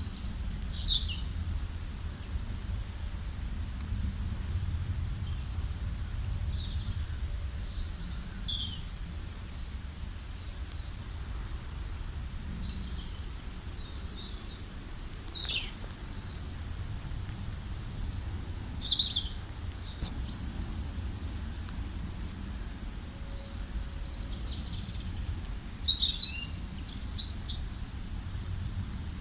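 Birds chirping and calling in short, scattered high notes and quick falling whistles, with livelier bursts about a quarter, two thirds and near the end of the way through, over a steady low background rumble.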